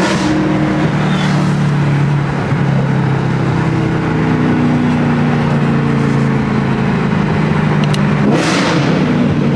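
Car engine running at a steady speed, with a swell of rushing noise near the end.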